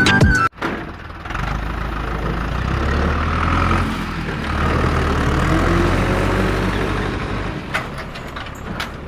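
An engine running steadily with a deep rumble, swelling and then easing off toward the end, like a tractor idling and revving. A few faint clicks come near the end.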